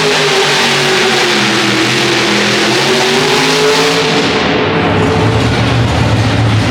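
Multi-engine modified pulling tractor running at full throttle under load, its pitch wavering. About four seconds in, the high-pitched part of the sound falls away and a lower engine rumble takes over, as the tractor comes off the throttle.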